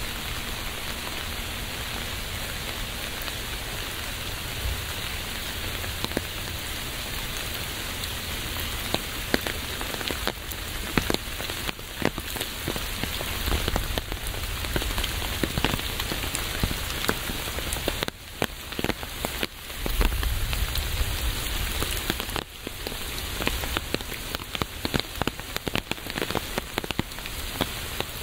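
Steady rain falling, with sharp ticks of individual drops landing close by; the drop ticks become more frequent from about ten seconds in.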